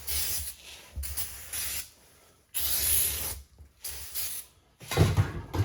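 Aerosol can of ether starting fluid spraying into a tire in about five short hissing bursts, charging it with fuel to blow the beads onto the rim.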